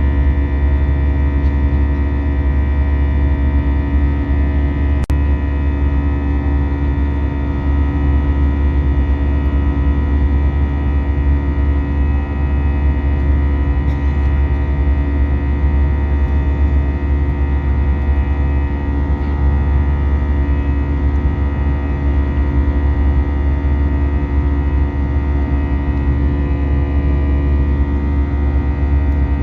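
Airbus A320 cabin noise in flight: the steady drone of the jet engines and airflow, with a deep hum and many steady whining tones over it. A faint click about five seconds in.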